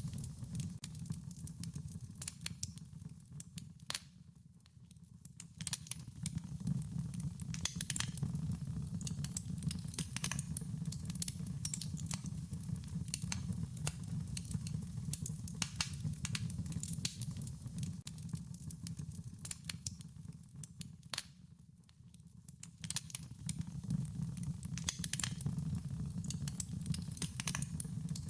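Campfire crackling, with many sharp pops and snaps over a steady low rumble of the burning wood. The crackling eases off briefly twice.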